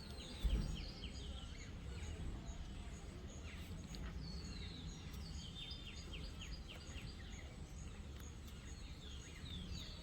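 Small birds chirping repeatedly in quick falling notes over a low steady rumble, with a brief low thump about half a second in.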